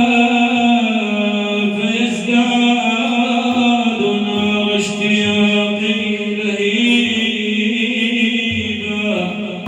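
Unaccompanied chanting of a madih, an Islamic devotional praise song for the Prophet, with long held sung lines over a steady sustained pitch.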